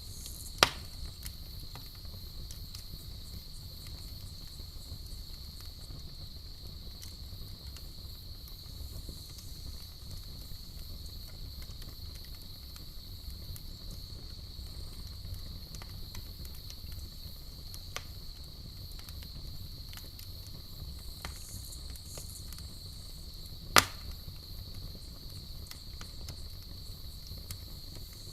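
Campfire burning with a low rustle and scattered small crackles, and two sharp loud pops, one right at the start and one near the end. Under it runs a steady high-pitched chorus of night insects.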